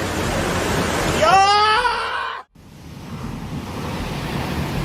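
Rushing floodwater with a person's brief rising shout about a second in. After an abrupt cut, another steady rushing noise of water begins.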